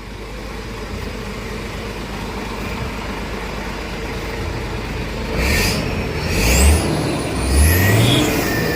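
Hino 500 truck's diesel engine running through a custom racing-spec exhaust, building slowly, then revved twice in the second half. A high whistle climbs in pitch with the revs.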